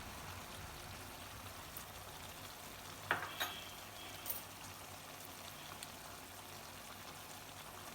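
Chicken gravy cooking in a pan, with a faint steady sizzle, and a few sharp clicks about three and four seconds in.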